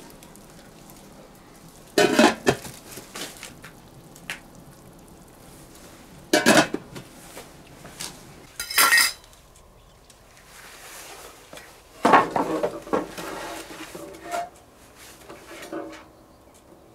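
Metal cookware clattering: a pot and utensils knocked and handled in about four loud bursts with smaller knocks between, as ingredients go into a pot.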